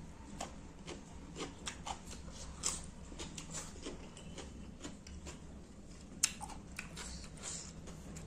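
A person chewing a mouthful of rice and fish curry, with a run of short mouth clicks and lip smacks and one sharper click about six seconds in.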